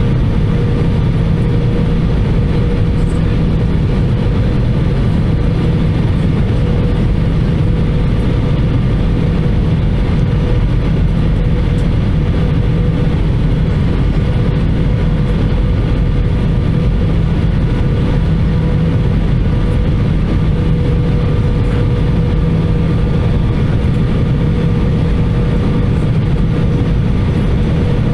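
Steady drone inside the cabin of an Airbus A320-214 on approach: the CFM56 engines and the airflow over the fuselage make a loud, even rumble with a steady hum running through it.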